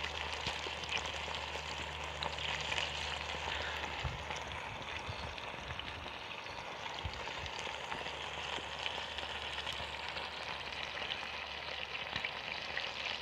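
Sausages frying in a pan: a steady sizzling hiss with small crackles.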